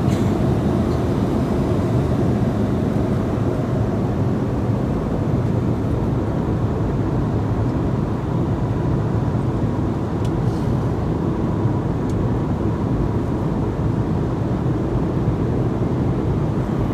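Airliner cabin noise heard from a passenger seat: a steady, low rumble of engines and airflow, with faint clicks near the start and about ten seconds in.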